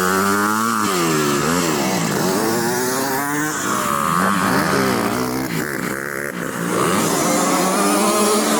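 Several motocross dirt bikes on track, their engines revving up and dropping back over and over as the riders work through the gears, overlapping one another.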